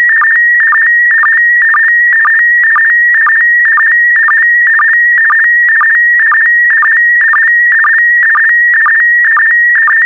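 SSTV picture signal in PD120 mode: a continuous electronic warbling tone around 2 kHz, broken about twice a second by short, lower-pitched sync pulses as the image is sent line by line.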